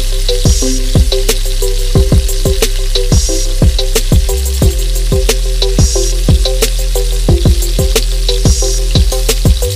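Chicken pieces sizzling as they fry in oil in a pan, turned with a spatula. Background music with a steady beat plays over it.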